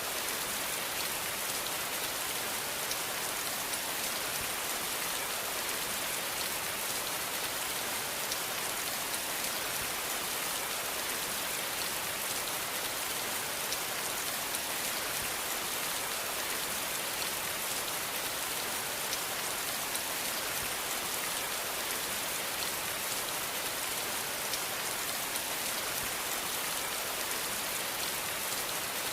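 Steady rainfall on a surface, an even hiss of many drops with no change in strength.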